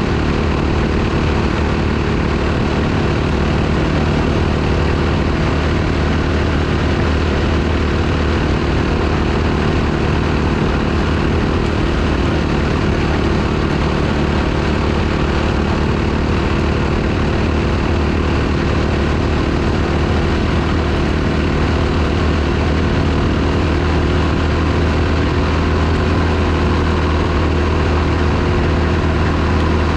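Dirt bike engine running at steady revs, an even, unbroken drone with no change in pitch.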